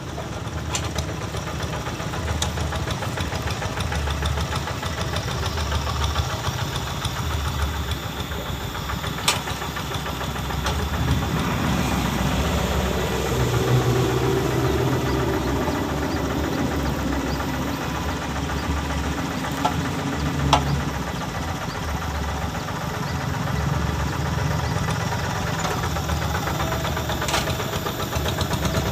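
Kubota single-cylinder diesel of a Quick G1000 Boxer hand tractor running steadily while working a wet rice paddy, its note swelling for a few seconds midway, with a few sharp clicks.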